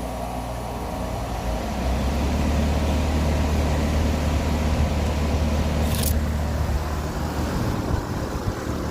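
Carrier Sentry heat pump outdoor unit running just after starting up: a steady low compressor hum over the rush of its fan, the hum growing stronger about two seconds in. A brief high swish comes about six seconds in.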